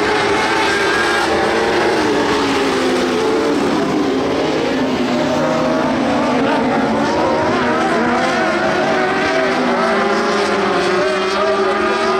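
Several dwarf race cars' motorcycle engines running together as the cars lap the track, their pitches rising and falling and overlapping as they rev and back off.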